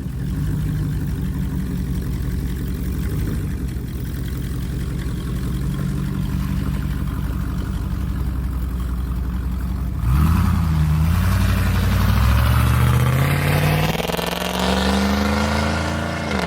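2003 Chevy Tahoe's V8 through a straight-piped exhaust with no catalytic converters, idling steadily with a short blip of the throttle about three seconds in. About ten seconds in it revs up, then climbs steadily in pitch until it falls away at the very end.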